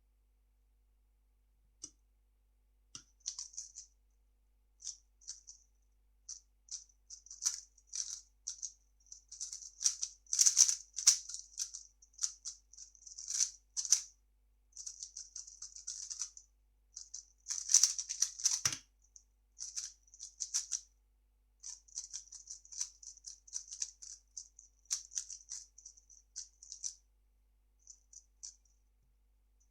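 Plastic 3x3 speedcube being turned fast: quick runs of light clicking and clacking as the layers snap around, in irregular bursts with short pauses, and a single heavier knock about two-thirds of the way through.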